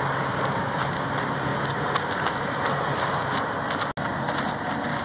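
A train passing nearby: a steady, fairly loud noise with a faint low engine tone under it for the first few seconds.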